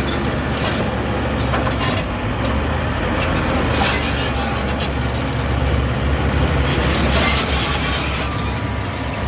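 Diesel engine of heavy earthmoving machinery running steadily with a deep rumble, with a few short knocks over it.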